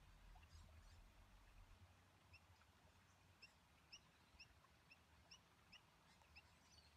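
Near silence, with a small bird chirping faintly in the background: short, high chirps about twice a second, starting a couple of seconds in.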